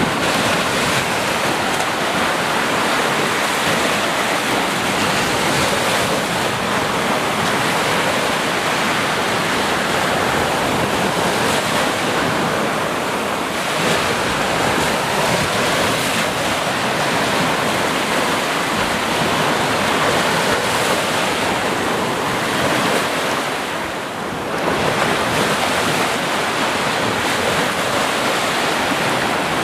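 Sea surf: waves breaking and washing continuously on the shore, a dense steady rush with a brief lull late on.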